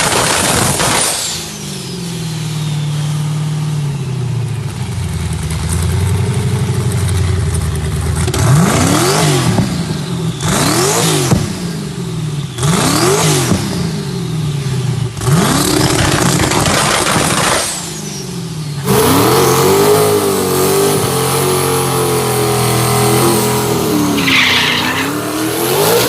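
Twin-turbo car engine running, then revved up and back down four times in quick succession; about nineteen seconds in the sound cuts to another engine running at a wavering speed.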